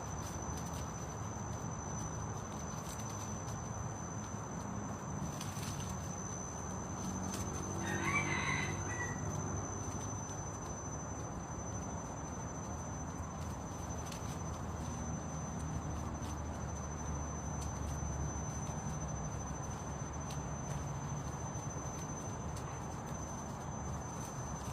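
A red junglefowl crows once, briefly, about a third of the way in, over a steady high-pitched insect drone.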